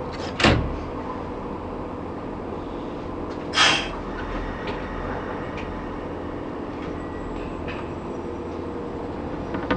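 Kobe Electric Railway 3000 series train standing in the station, its equipment giving a steady hum in the cab. A sharp clunk comes about half a second in, and a short hiss about three and a half seconds in.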